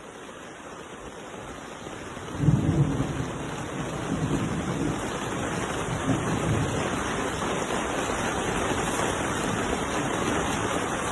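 Steady rushing water noise that grows louder, with a heavy low rumble setting in about two and a half seconds in.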